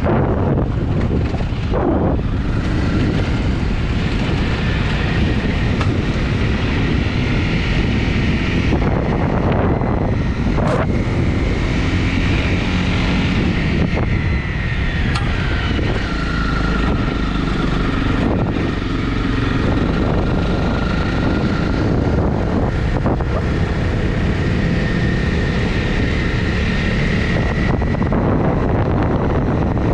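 Honda CRF250's single-cylinder four-stroke engine running steadily while riding, mixed with wind noise on the microphone.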